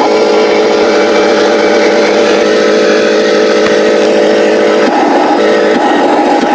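Simulated truck diesel engine sound from a small speaker, running steadily with an even drone, changing pitch briefly about five seconds in.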